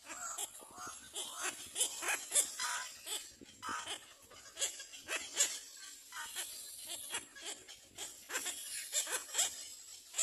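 A rapid run of short animal calls and clicks, several a second.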